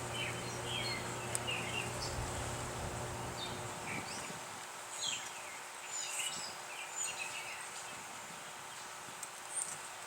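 Honeybees buzzing around an open hive. A lower hum drops out about three and a half seconds in, and short high chirps sound now and then over the buzz.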